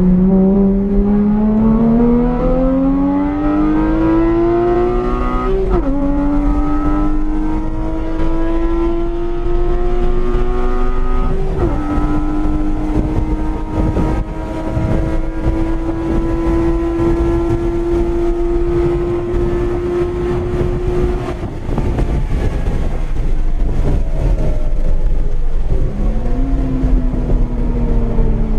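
Porsche 981 Cayman's 2.7-litre flat-six, fitted with an IPD intake plenum and a Soul Performance cat-back exhaust, heard from inside the cabin at full throttle on track. The revs climb and drop sharply twice as it shifts up, then hold high and rise slowly down the straight. About three-quarters of the way through the engine note falls away as the throttle is lifted, and near the end the revs jump up once and then fall as it brakes and shifts down.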